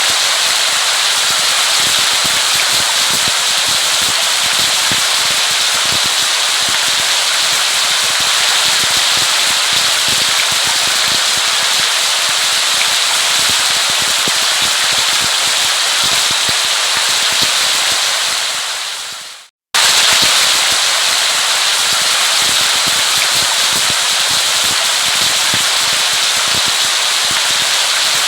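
Steady heavy rain, a dense even patter of drops. It fades out briefly a little before two-thirds of the way through and starts again at once, as a looped recording does.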